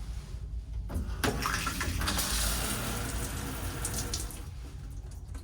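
Water running at strong pressure in a ship's cabin bathroom, turned on about a second in and shut off near the end, showing off the good water flow.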